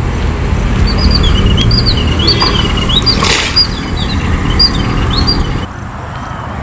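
A bird calling over and over, short high chirps that rise and fall, over a steady low rumble. Both stop abruptly near the end.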